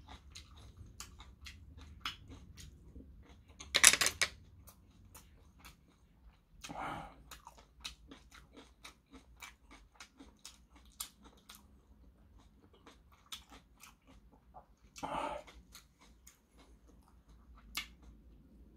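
A person chewing a mouthful of food close to the microphone, with many small wet mouth clicks. There are three louder, short bursts of noise about 4, 7 and 15 seconds in.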